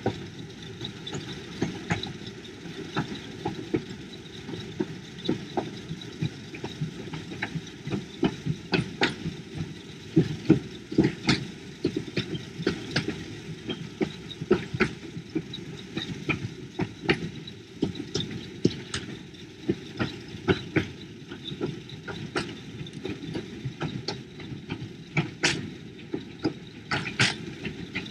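Hythe Pier Railway's small electric train running along the pier: a steady low rumble with frequent irregular clicks and clacks from the wheels and track, busier and louder from about nine seconds in.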